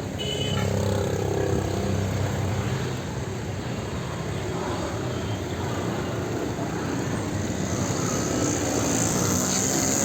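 Street traffic: vehicle engines running and passing over steady road noise, with one vehicle swelling up in the first second.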